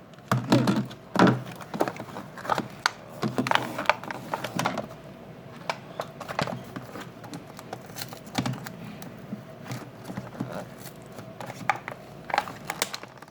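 Irregular clicks, knocks and crinkles of cardboard and plastic packaging being handled and pulled apart while a Nerf blaster is unboxed.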